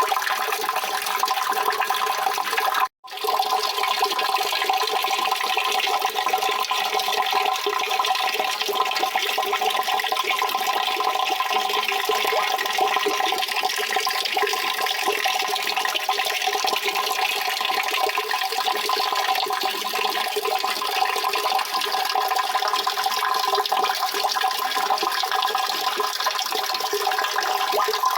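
Steady rushing, splashing water that does not change in character, with a few fixed tones in it. It cuts out for an instant about three seconds in, then resumes.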